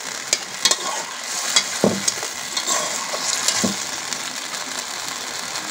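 Soybean chunks and diced potatoes sizzling in spiced oil in a metal pot while a metal spatula stirs them, scraping and knocking against the pot several times in the first four seconds, then a steady sizzle. This is the dry-frying (koshano) stage of a soybean and potato curry.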